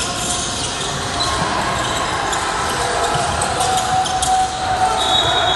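Basketball being dribbled and bounced on a gym floor during a game, amid the echoing background noise of players and spectators in the hall.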